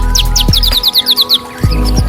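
A small songbird's fast run of sharp, high, falling chirps, about ten in quick succession, over background music with a steady low drone and an occasional low thump; the music drops out briefly around the middle.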